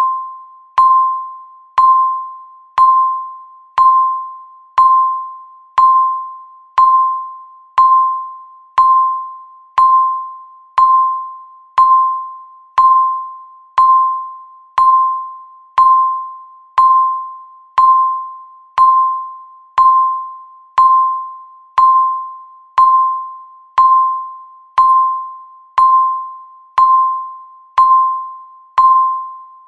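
Countdown timer beeping once a second: a single high electronic beep with a sharp start that fades away before the next one, repeating evenly.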